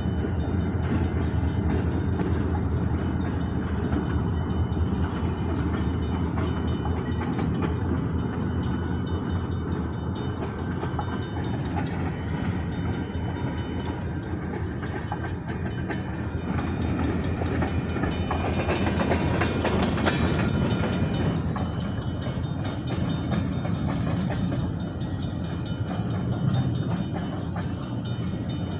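Short freight train hauled by three diesel locomotives rolling past, a steady low rumble with occasional clicks, growing a little louder about two-thirds of the way through.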